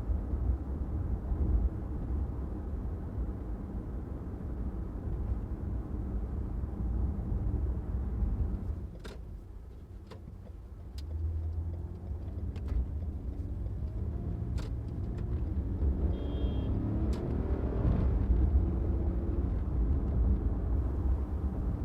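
Car driving on city streets: a steady low rumble of engine and road noise that drops for a moment about ten seconds in, then builds again with a rising engine note as the car picks up speed. A few light clicks come through along the way.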